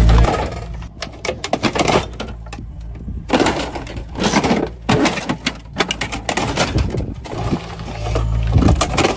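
Pickup truck engine running loud, then dropping back, with scattered knocks and crunches of debris under the truck; the engine picks up again near the end.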